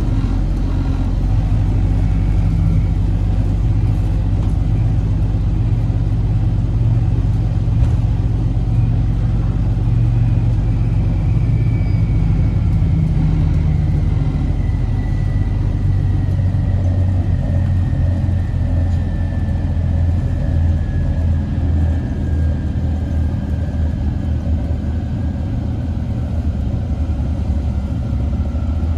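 Orion VII NG hybrid bus underway, heard from inside: a steady low rumble from the Cummins ISB diesel and the road. A thin electric whine from the BAE HybriDrive traction motor falls slowly in pitch from about a third of the way in, as the motor spins down with the bus slowing.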